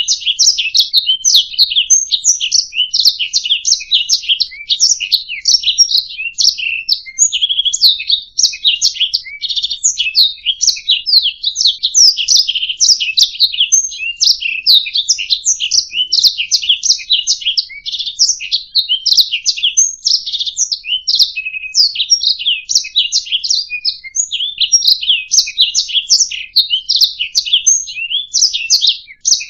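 Domestic canary singing continuously: a fast, unbroken stream of high chirps, trills and warbled notes without pauses.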